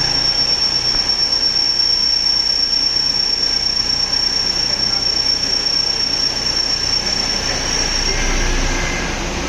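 CNC vertical drilling machine at work: a steady high-pitched squeal over the machine's running noise, which stops about eight seconds in.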